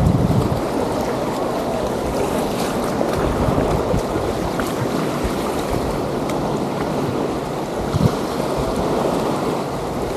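Wind buffeting the microphone over the steady wash of small waves on a sandy beach, with a brief bump about eight seconds in.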